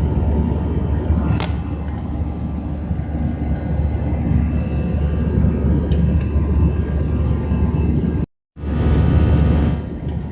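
Air India airliner's engines and rushing air making a steady low rumble during a take-off and climb. It drops out completely for a moment about eight seconds in, then comes back slightly louder.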